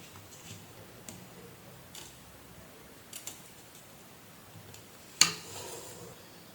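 Small hand tools clicking and tapping on a repair bench: a few faint ticks scattered through, and one much sharper, louder click about five seconds in with a brief ring after it.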